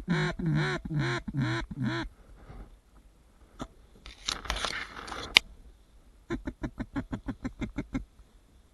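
Duck quacking: five loud, drawn-out quacks in quick succession, then a fast run of about fifteen short, clipped quacks near the end. Between them there is a brief rustle that ends in a sharp click.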